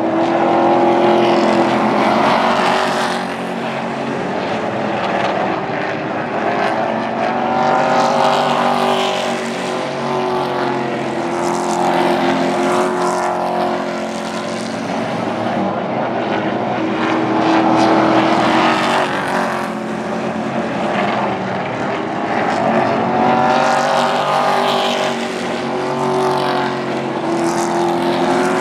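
Super truck race engines running a feature race, several trucks at once, the sound swelling and fading again and again as the pack passes and goes round the track.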